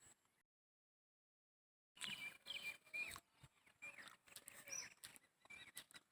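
Near silence: a second and a half of dead silence, then faint, scattered bird chirps in the background.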